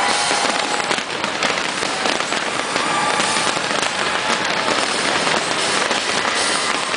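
Fireworks display: a dense, continuous crackle of many small bangs, with faint whistles mixed in.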